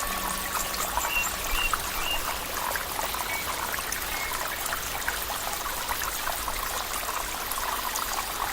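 Water flowing and trickling steadily, like a small stream, with a faint steady tone held over it for the first three seconds.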